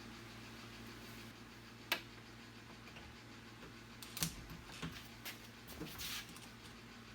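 Light clicks and taps over a faint steady hum: one sharp click about two seconds in, then a handful more, roughly half a second apart, in the second half.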